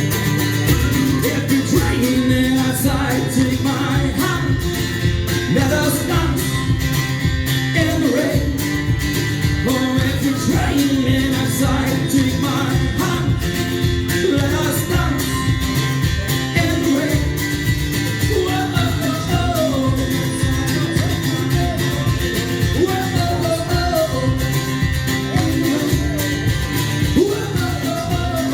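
Live song performance: an acoustic guitar strummed in a steady rhythm under a sung vocal melody.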